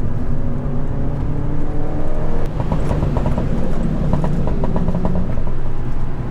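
Mini Roadster's engine running hard on a circuit lap, heard from inside the car, with a shift in engine pitch about two and a half seconds in.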